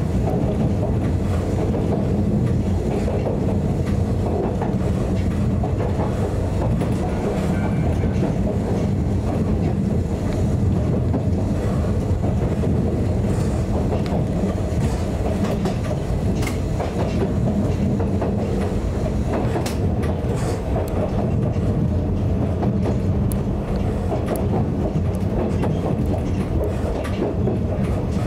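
Narrow-gauge electric railcar of the Yokkaichi Asunarou Railway running steadily along the track, heard from inside the cab as a low running rumble. A few wheel clicks over rail joints come in the second half.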